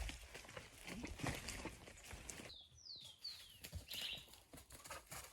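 Horse hooves clopping at a walk as irregular knocks. About halfway through, the background noise drops away and a bird gives several short, falling chirps.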